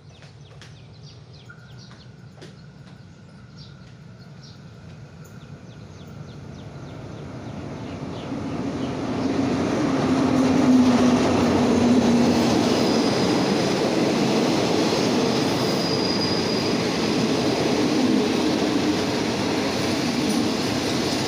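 Passenger train approaching and running past close by: a rumble that grows over the first ten seconds or so, then holds as the steady noise of coaches and wheels on the rails.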